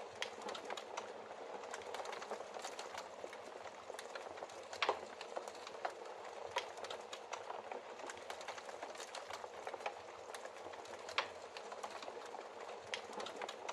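Logs burning in a fireplace: a steady hiss with frequent crackles and sharp pops, the loudest pops about five and eleven seconds in.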